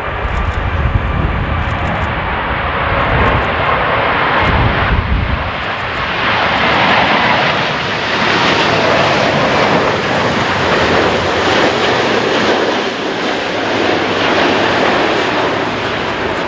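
Jet airliner, likely a Boeing 787, passing low overhead on approach, its engine roar swelling about six seconds in and staying loud. Strong wind buffets the microphone with low rumbling gusts in the first few seconds.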